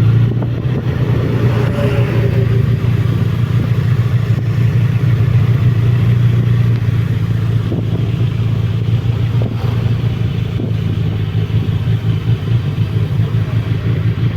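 Motorcycle engine, likely the Suzuki Bandit's inline-four, running steadily while riding.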